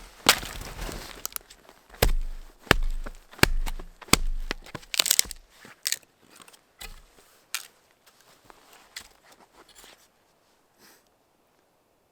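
A series of sharp cracks and crunches, about one every half second to second, thinning out and stopping about ten seconds in.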